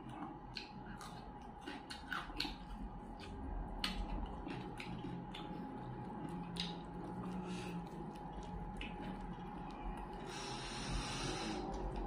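Close-up eating sounds of fried fish being chewed and picked apart by hand: wet mouth clicks and lip smacks, thickest in the first few seconds. About ten seconds in there is a hiss lasting a little over a second.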